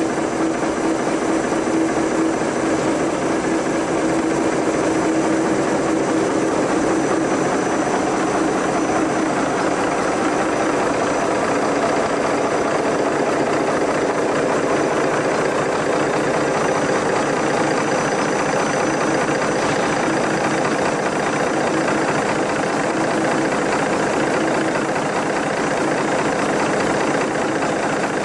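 A pulley-driven demonstration engine running steadily: a dense, even whirring under a constant hum, with no change in speed.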